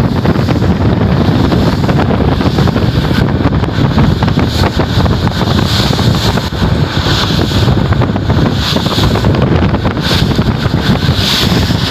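Strong wind blowing across the microphone on board a ship: a loud, steady low-pitched buffeting, with patches of hiss coming and going in the second half.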